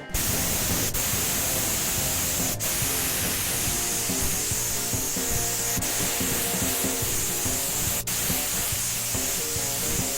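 Paint spraying: a steady hiss that starts abruptly and stops near the end, with background music underneath.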